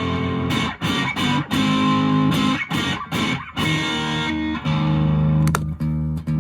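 Electric guitar (Fender Japan Jazzmaster) through a 1985 Japanese Boss DS-1 distortion pedal and an amp, recorded on a smartphone: distorted chords struck in short choppy stabs, then held chords ringing out near the end.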